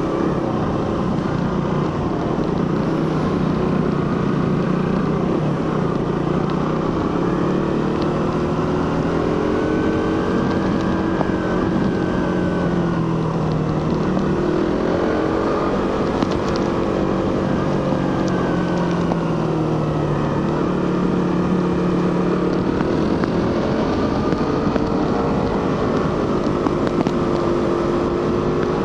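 Suzuki GSX-R150's single-cylinder engine and stock exhaust running while the bike is ridden, the engine note rising and falling gently with the throttle.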